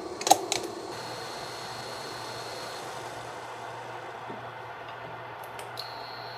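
Two sharp knocks, one right after the other, about a third of a second in, over a steady low hum with a thin high whine; a few faint clicks near the end.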